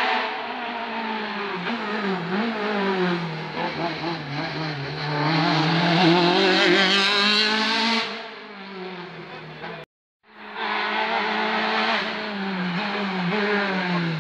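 Rally car engine at high revs, its pitch falling and climbing through gear changes, loudest around six to eight seconds in before dropping abruptly as the throttle comes off. After a short silent break about ten seconds in, another stretch of rally car engine at high revs.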